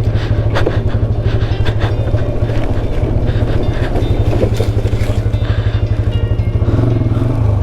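Motorcycle engine running at low, steady revs with an even exhaust pulse while descending a steep, loose trail. A few short knocks and clatters sound over it.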